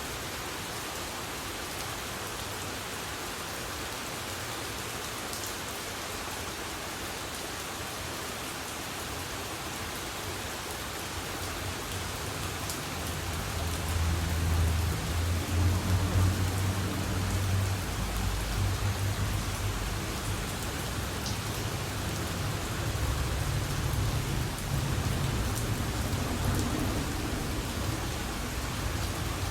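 Heavy rain falling steadily, with a low rumble joining about halfway through that swells and fades twice.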